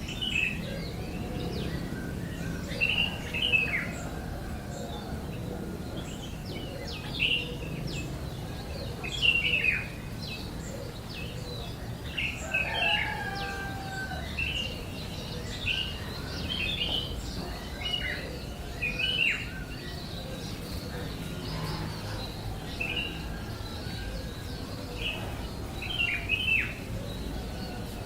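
A bird chirping: short, high chirps, many sliding down in pitch, coming every second or two at irregular intervals over a low steady rumble.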